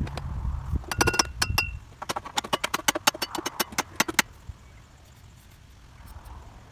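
A quick, irregular run of sharp metal knocks and clinks, a few of them ringing briefly, as tools work on metal mower parts; they stop about four seconds in.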